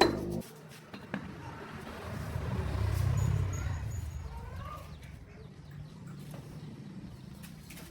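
A running engine cuts off abruptly just after the start. A low motor hum then swells and fades over the next few seconds, with a few faint bird chirps over it.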